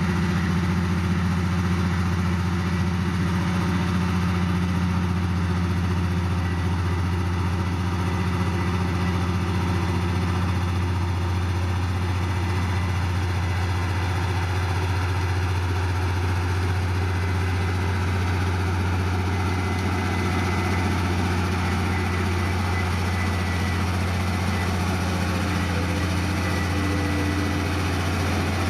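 Heavy diesel engine of earthmoving equipment running at a steady speed, a constant low hum with no revving or change in load.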